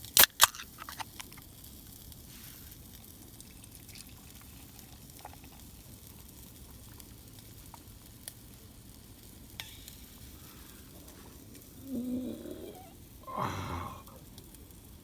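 Sausages sizzling as they fry over the camp fire, a faint steady crackle. A couple of sharp clicks come just after the start, and two louder short noises near the end.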